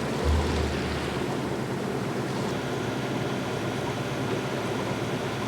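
Steady noise of a sailboat under way: an inboard engine running evenly, with wind and water rushing past the hull.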